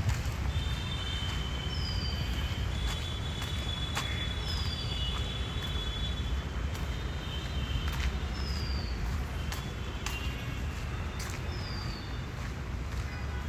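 A bird repeating a short falling whistle every few seconds over a steady low rumble.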